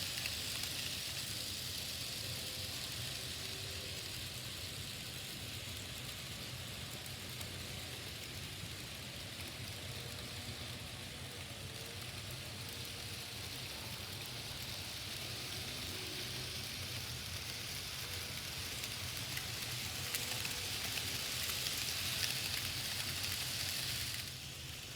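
N scale model trains running on the layout: a steady hissing whir of small electric motors and wheels rolling on track, with a low hum beneath. The hiss swells over the last few seconds, then drops off suddenly just before the end.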